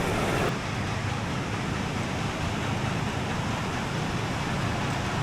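Steady rushing outdoor noise with no clear single event, easing slightly about half a second in and then holding level.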